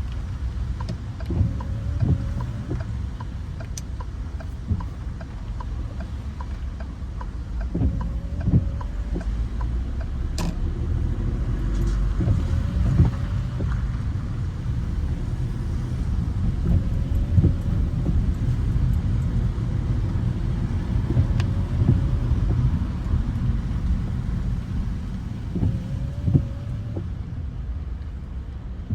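Car driving on rain-wet city streets: a steady low road rumble with scattered light clicks.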